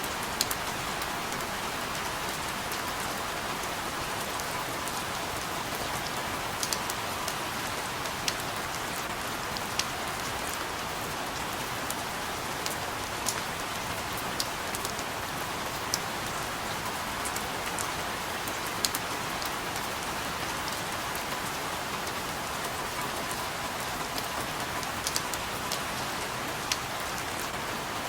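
Steady rain falling, an even hiss with scattered sharp ticks of single drops striking a surface close by.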